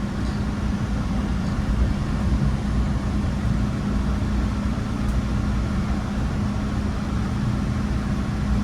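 MBTA Red Line subway car running between stations, heard from inside the car: a steady low rumble with a constant hum.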